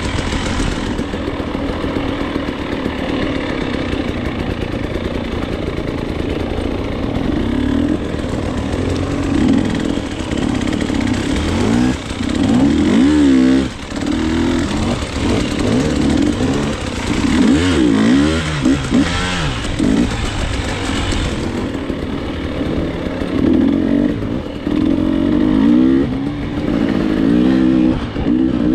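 KTM enduro dirt bike engine being ridden hard, revving up and down over and over as the throttle opens and closes, with the pitch dropping sharply twice around the middle, over a steady rush of noise and some clatter.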